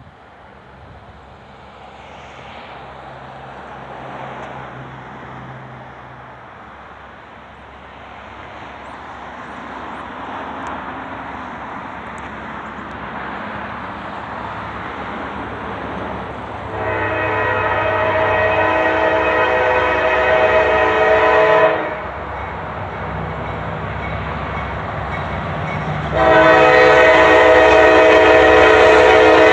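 Diesel locomotives of a coal train approaching, their rumble growing steadily louder. The multi-chime air horn then sounds one long blast of about five seconds, falls silent briefly, and starts a second blast near the end.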